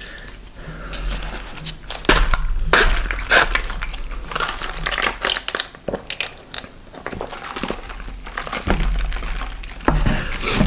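Fast-food packaging crinkling and rustling in irregular crackles as the meal is handled and unwrapped.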